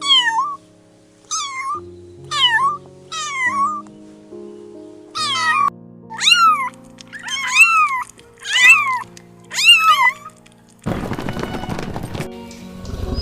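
Domestic cat meowing repeatedly, about nine separate rising-then-falling meows over soft background music. About two seconds from the end the meows stop and a steady rushing noise takes over.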